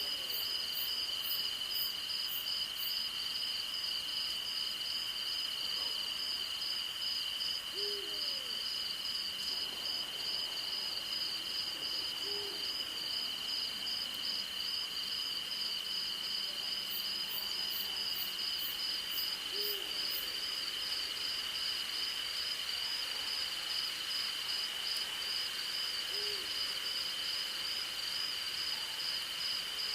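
An owl gives single short hoots, five in all, spaced several seconds apart, over a steady night chorus of crickets and other insects: one continuous high trill with a faster pulsing chirp above it.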